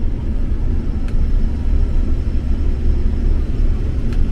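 Combine harvester running, heard from inside its cab as a steady low rumble, with a faint click about a second in and another near the end.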